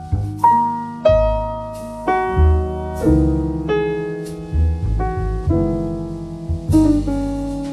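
Solo piano music, slow and calm, with single notes and chords struck about once a second and left to ring over low sustained bass notes.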